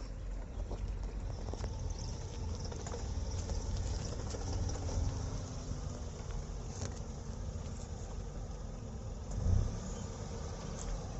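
Tata Altroz hatchback driving on a rough road, a steady low rumble of engine and tyres, with a louder low thump about nine and a half seconds in.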